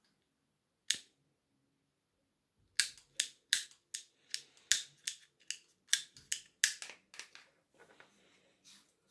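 A single sharp click, then after a pause a quick run of about fifteen sharp clicks, roughly three a second, fading to fainter ones near the end.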